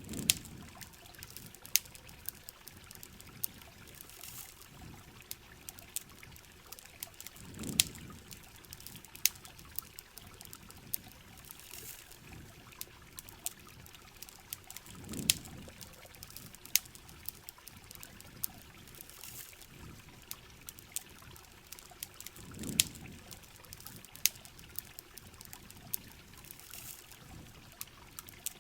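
Campfire crackling with frequent sharp pops over a steady hiss of heavy rain and flowing water, with a low swell that falls in pitch about every seven to eight seconds.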